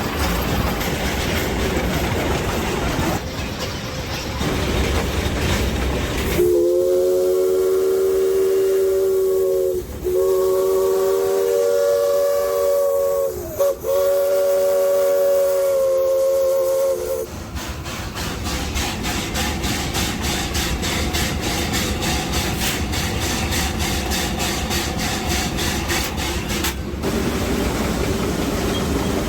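Replica Shay geared steam locomotive under way, heard from the cab. Its steam whistle sounds a chord of several tones in three blasts, from about a third of the way in, the last one cut off sharply. Afterwards the engine runs on with a fast, even beat.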